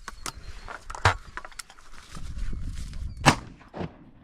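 Shotgun shots at ducks: a lighter report about a second in and a loud, ringing one about three seconds later.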